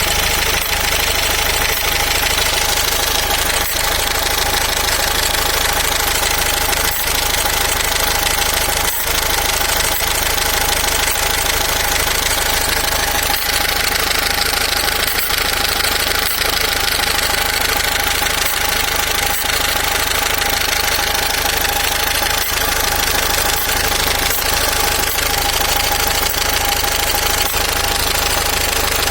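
SsangYong Actyon engine running steadily with an extraneous noise in it, the abnormal sound the owner is showing. A constant tone rides over the engine's running, with faint irregular ticks.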